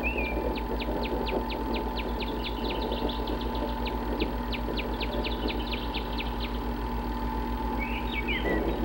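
A songbird singing: a short warbled phrase, then a long run of clipped high chirps, about three or four a second, for some six seconds, and the warbled phrase again near the end. A steady electrical hum runs beneath.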